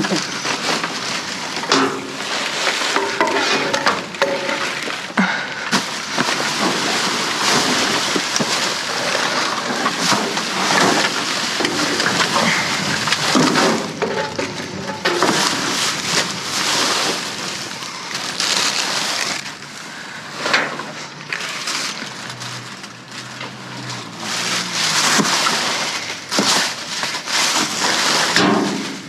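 Rummaging through garbage in a dumpster: a continuous rustle and crackle of bags and trash being shifted, with many short knocks and clatters of items.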